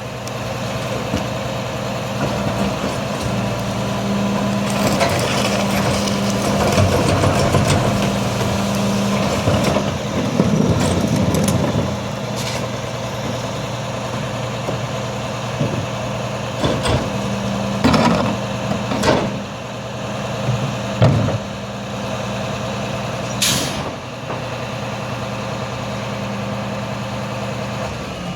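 Garbage truck engine running steadily while trash is packed, with louder working noise for several seconds and a run of clanks and knocks. A short hiss of air brakes comes near the end.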